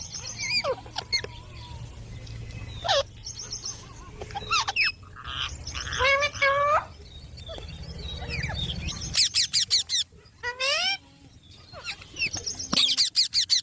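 Pet green ringneck parrots calling: a string of sharp chirps and short squawks, some sliding in pitch, with a quick run of rapid high chirps about nine seconds in. A steady low hum runs underneath.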